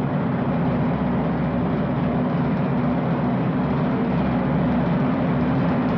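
A large crowd cheering loudly and steadily.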